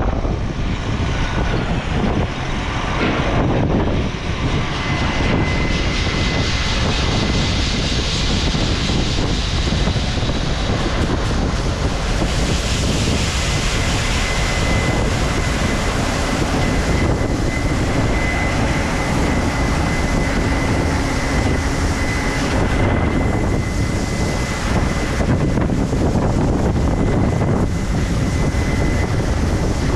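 Truck running, heard from inside the cab: a steady loud rumble and hiss of engine and road noise, with a thin steady whine joining about five seconds in and fading near the end.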